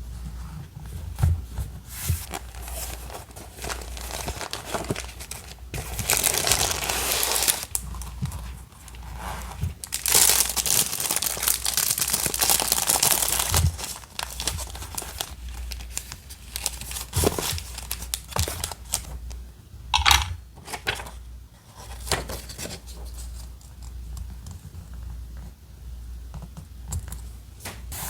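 Paper and sticker sheets being handled at a desk: crinkling rustles with longer stretches of tearing, the loudest about six seconds in and from about ten to thirteen seconds, and light taps in between.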